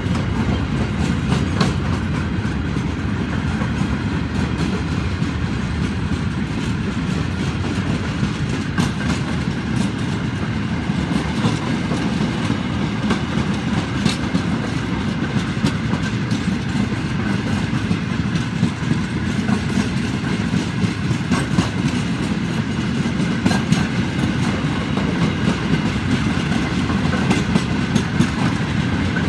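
Freight train's steel flat wagons rolling past: a steady rumble of wheels on rail with frequent clicks, the clickety-clack of wheels passing over rail joints.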